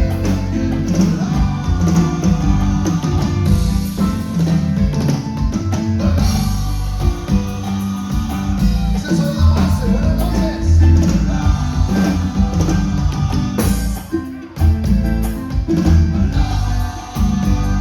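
A band playing live, with singing over drums, bass and guitar, and a steady beat. The music dips briefly about fourteen seconds in.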